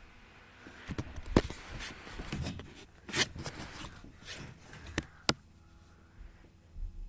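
Rustling and scraping with a run of sharp clicks and knocks, loudest about a second and a half in, ending with two sharp clicks near five seconds; quiet afterwards except a couple of low bumps near the end.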